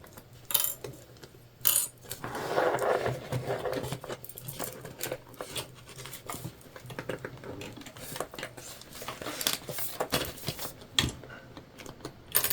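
Jelly vinyl bag pieces being handled and set in place on a sewing machine: scattered separate clicks and light clatter, with a crinkling rustle about two seconds in.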